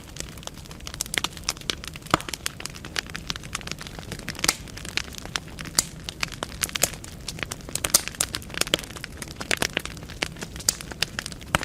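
Wood fire burning in a fireplace: logs crackling and popping in many sharp, irregular snaps over a low steady rumble of the flames.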